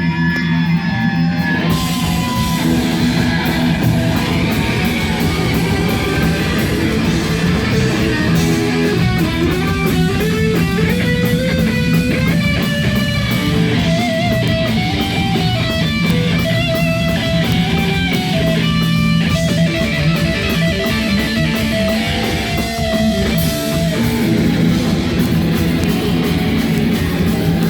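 Loud heavy rock music with electric guitars and drums. The drums come in about two seconds in, and a melody steps up and down through the middle.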